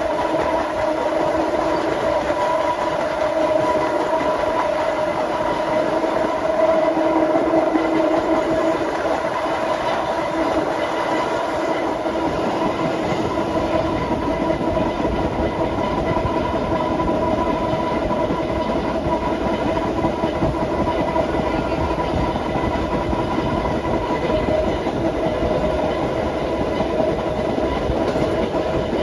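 Vintage BMT BU gate car train running on the rails: steady hum of the running gear over wheel rumble and clickety-clack, the low rumble growing heavier about halfway through.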